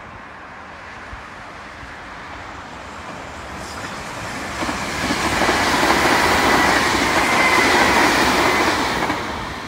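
Sanyo Electric Railway electric train approaching and passing close by, growing louder from about four seconds in, with the rumble of wheels on the rails and a steady high whine, then fading near the end.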